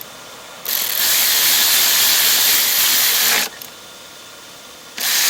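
Power tool run in two long bursts, the first about three seconds long and ending with a falling whine as it spins down, the second starting near the end.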